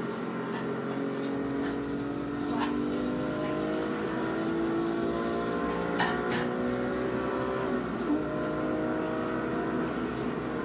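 Porsche 911 GT3 (997) flat-six engine heard from inside the cabin under acceleration, its pitch climbing steadily for several seconds. It drops about eight seconds in at an upshift and climbs again. A few light clicks and knocks come through.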